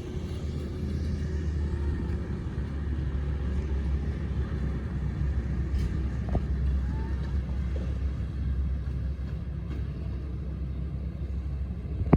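Diesel locomotive engine rumbling steadily, a deep even drone with no clear rhythm of wheel beats.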